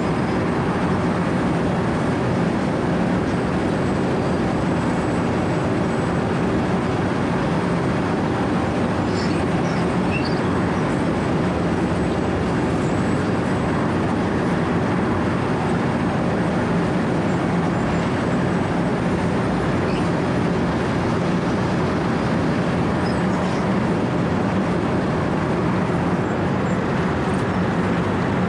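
Wirtgen W 120 CFi four-foot cold milling machine cutting asphalt: its diesel engine and rotating cutter drum make a continuous grinding noise with a low hum, steady throughout.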